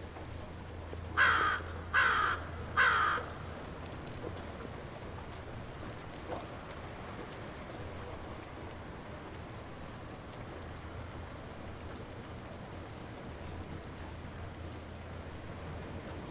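Light rain falling steadily, with a bird calling three times in quick succession about a second in, the loudest sound.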